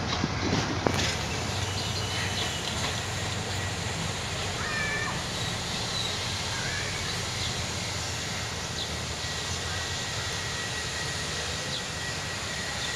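Passenger train carriages rolling away on the track: wheels clack over the rail joints a few times in the first second, then a steady rumble carries on as the train draws off. Birds chirp now and then over it.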